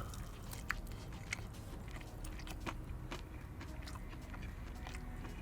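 A person chewing a mouthful of cereal-coated fried chicken close to the microphone, quietly, with a few small wet clicks and crunches.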